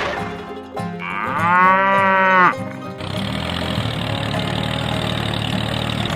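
A cow moos once, about a second in, a call of about a second and a half that rises and then falls in pitch and stops abruptly. It is heard over a small engine running steadily, which carries on alone afterwards.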